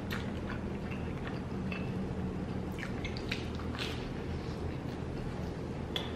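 Close-miked eating sounds: a slice of pizza dipped into ranch dressing, bitten and chewed, with scattered wet smacks and squishes of the mouth over a steady low room hum.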